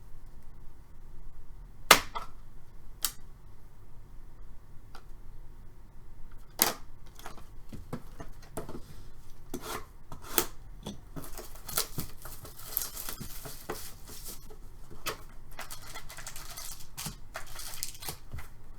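Trading cards and their plastic packaging being handled on a table: a scatter of sharp clicks and taps, then a crinkly rustle of plastic wrapper in the second half.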